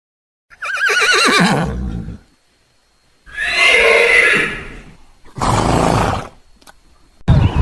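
A horse whinnies: a long, shaky call that falls steeply in pitch. It is followed by a second pitched call and then a short, breathy noisy burst.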